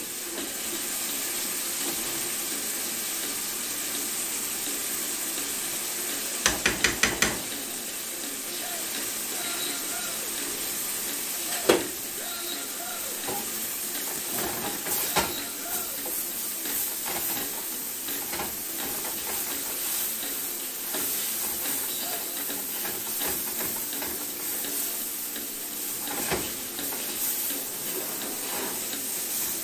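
Turkey burger patties and meatballs sizzling steadily in a skillet, with a quick run of clicks about six and a half seconds in, a sharp knock near twelve seconds, and light clatters of the pan lid and a metal spatula against the pan.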